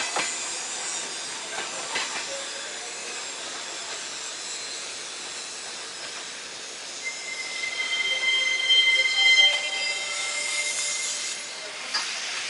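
Railway cars rolling by with a steady rush and a few sharp clanks. About seven seconds in, a high steady squeal of the wheels or brakes sets in, loudest around nine seconds, and cuts off after about four seconds.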